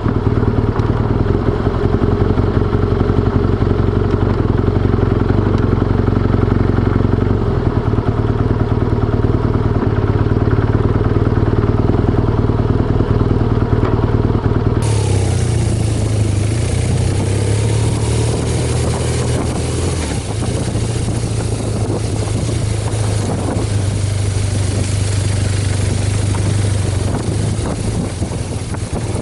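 BMW R1200GS boxer-twin engine running steadily while riding. About halfway through, the sound switches abruptly to a hissier mix with wind noise on the microphone, and the engine is still running beneath it.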